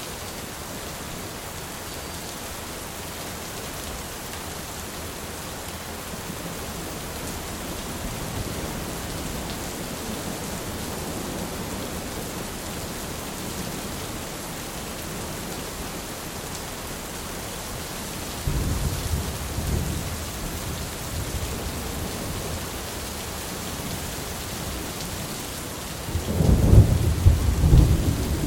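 Steady rain falling, with rolls of thunder: a low rumble breaks in suddenly about two-thirds of the way through, and a louder, closer crack and rumble comes near the end.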